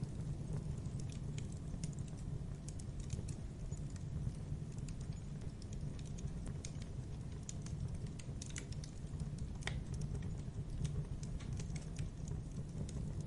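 Campfire burning: irregular crackles and pops from the burning wood over a steady low rumble.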